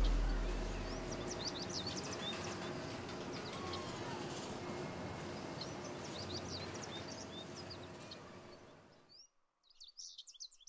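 Birds chirping over a steady outdoor background hiss, which fades out near the end, leaving a few faint chirps. A deep rumble dies away in the first second.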